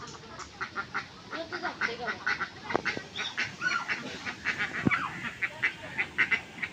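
Ducks quacking in quick, overlapping calls, several a second, busier in the second half.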